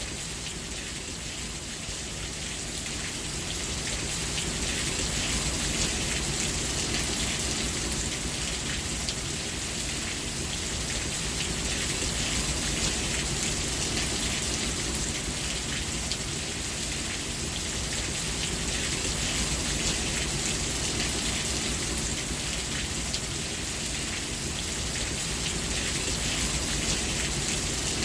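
Steady rain falling: a dense, even hiss of countless drops, growing slightly louder a few seconds in.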